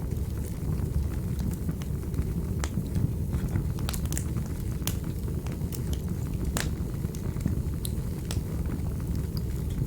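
Wood fire in a fireplace crackling: irregular sharp pops and snaps over a steady low-pitched noise of the burning.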